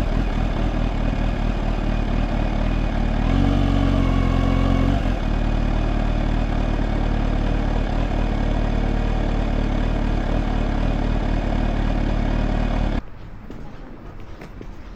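Kawasaki Z H2's supercharged inline-four engine running steadily under way, with wind noise, its note shifting briefly about four to five seconds in. The engine sound cuts off suddenly about thirteen seconds in, leaving much quieter background.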